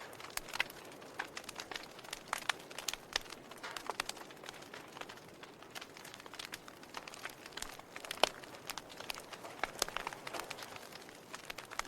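Wood fire crackling: irregular sharp pops and snaps from the burning logs over a faint hiss of flame, with one louder pop about eight seconds in.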